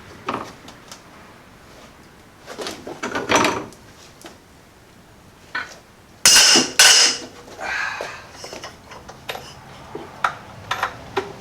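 Metal clanks and clicks of a socket and ratchet being fitted and worked against rusted, seized bolts soaked in penetrating oil, in irregular bursts with a loud pair of scraping clanks near the middle.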